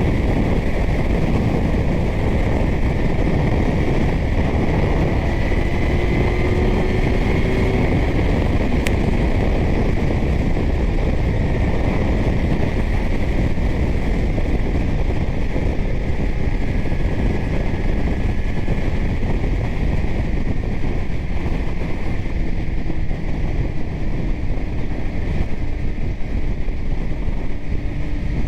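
Steady wind rushing over a helmet microphone while riding a Kawasaki Z900. Under the wind is the bike's inline-four engine running through a titanium Arrow exhaust, its faint note drifting up and down in pitch.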